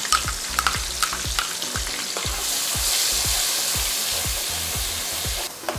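Ginger-garlic paste sizzling in hot oil and butter in a karahi, with a spatula knocking and scraping against the pan. The sizzle swells about halfway through and drops away just before the end.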